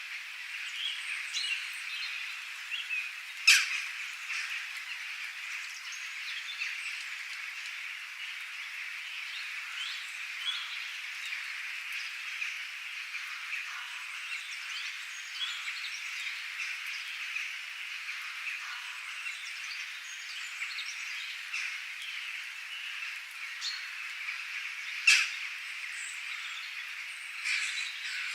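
A steady outdoor chorus of calling frogs, with scattered bird chirps over it. Two brief, sharp, loud calls stand out, one a few seconds in and one near the end.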